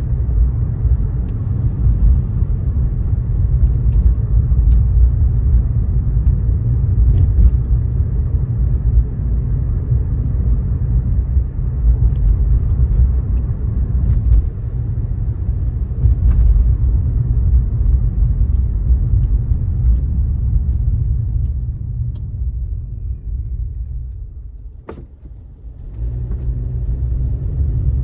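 A car driving on wet roads in the rain: a steady low rumble of road and tyre noise, with a few faint ticks scattered through it. Near the end the rumble drops away for a couple of seconds, with one sharp click, then picks up again.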